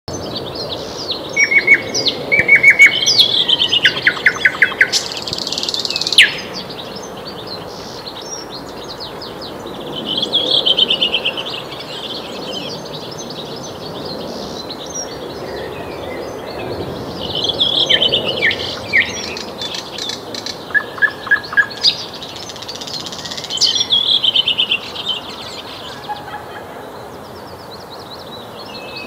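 Nightingale singing: phrases of rapid repeated notes, trills and whistles, each a second or a few seconds long, separated by pauses, with the longest and loudest phrase near the start. A steady faint hiss runs underneath.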